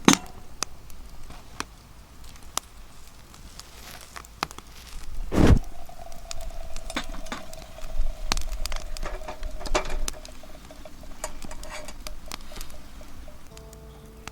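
Campfire cooking sounds: scattered sharp clicks and crackles, and a knock about five and a half seconds in that leaves a ringing metal tone fading over several seconds, as of struck cookware.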